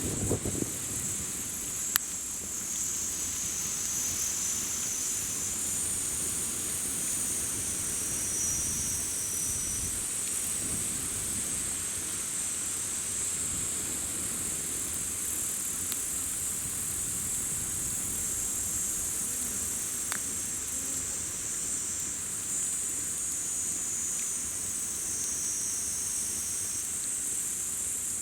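Summer-evening insect chorus, a steady high-pitched shrill of many crickets and other insects, with the campfire giving a sharp crackle about two seconds in and a fainter one near the middle.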